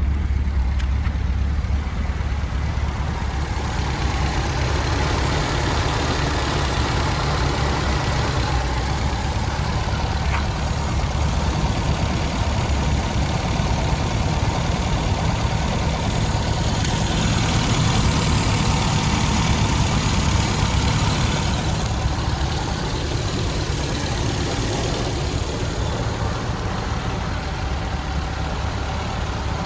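1974 MGB's 1.8-litre four-cylinder engine idling steadily, with a brief swell of hiss around the middle.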